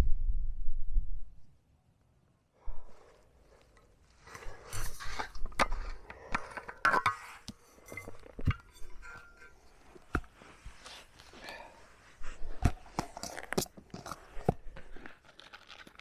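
Camping brew kit and packaging being handled: a run of short clicks, knocks and clinks mixed with bursts of rustling and crinkling. A low wind rumble on the microphone cuts off about a second and a half in.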